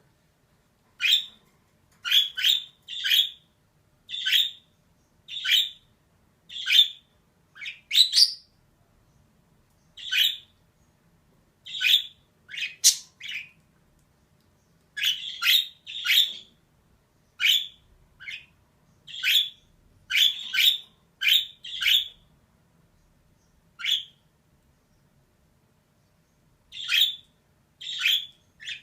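Female budgerigar calling in short, scratchy chirps, one or two at a time, with pauses of a few seconds between some of the runs.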